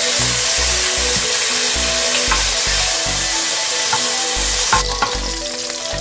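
Chicken skin frying in a metal pot, a loud steady sizzle as its fat renders out, while a spatula stirs and scrapes the pieces. The sizzle drops abruptly near the end, leaving lighter frying and a few clicks of the spatula against the pot.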